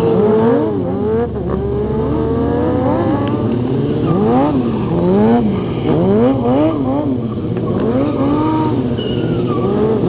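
Stunt motorcycle engines revving hard, the pitch climbing and dropping over and over as the throttle is worked, with more than one bike running at once.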